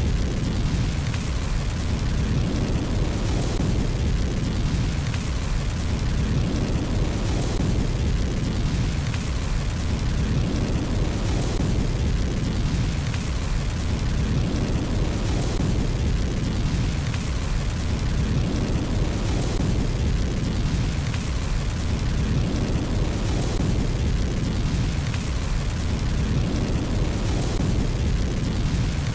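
Fireplace fire burning, a steady low rumble with crackles on top. The same pattern of crackles comes back about every four seconds, as in a short repeating loop.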